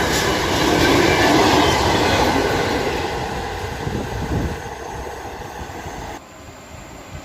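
Train rolling past on the rails, loud wheel-and-track noise that fades as it moves away, then drops off abruptly about six seconds in.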